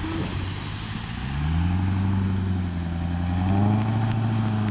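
Chevrolet Corvette C7's V8 accelerating away, the engine note rising about a second in, holding, then climbing again near the end.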